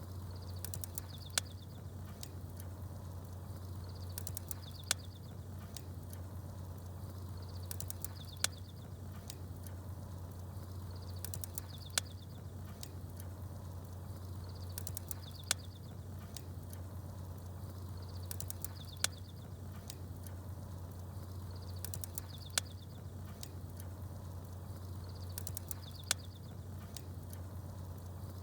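Small birds chirping in a short high trill that repeats at a steady interval of about three and a half seconds, each time with one sharp crackle from a campfire, over a steady low hum. The even repeats suggest a looped recording.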